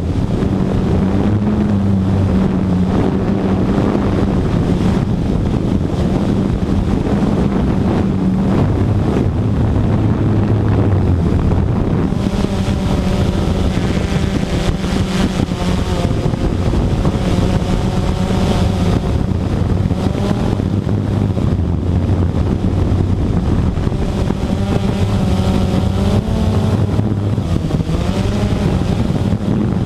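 Radio-controlled model aircraft's motor running in flight, its pitch wavering up and down as it flies about, with wind rumbling on the microphone.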